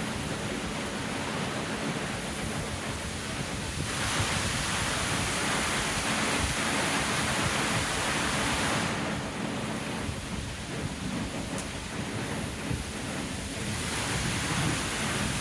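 Water fountain splashing: a steady rush of falling water that swells louder for several seconds in the middle.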